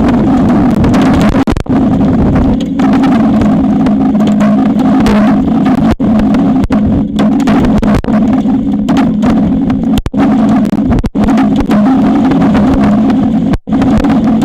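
Strong wind buffeting the nest-cam microphone: a loud, continuous rumble with brief dropouts where the audio cuts out for a moment.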